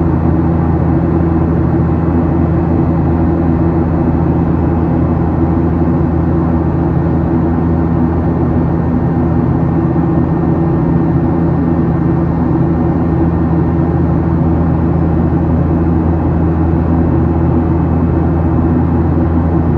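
Cabin noise inside a Boeing 737-800 climbing after takeoff: its CFM56-7B turbofan engines and the airflow make a steady, low drone with an even hum.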